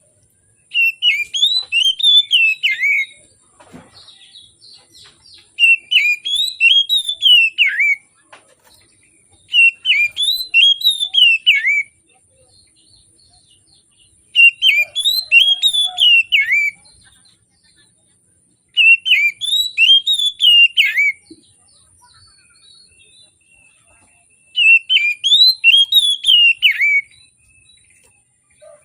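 Oriental magpie-robin (kacer) singing: six bursts of song, each a rapid run of loud, slurred whistles and chirps lasting about two and a half seconds, with pauses of a few seconds between them.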